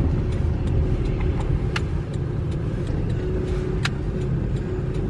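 Steady road and engine rumble heard inside a moving car's cabin, with scattered faint clicks.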